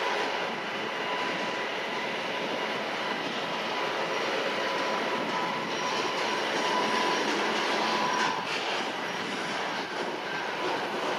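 WAG 9 electric locomotive hauling a car-carrier train rolling past close by, a steady rumble of wheels on rail with a thin high squeal coming and going and a few clicks about eight seconds in.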